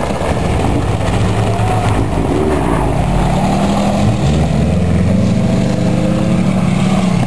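Subaru station wagon's flat-four engine revving hard, its pitch rising and falling, as the car spins its tyres on loose gravel.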